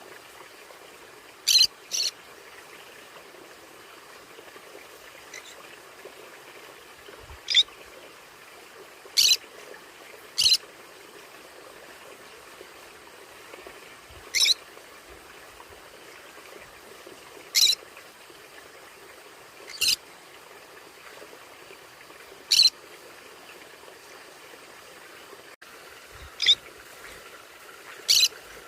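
Conures giving short, shrill single calls, about a dozen spaced irregularly one to three seconds apart, one of them a quick double call, over a faint steady hiss.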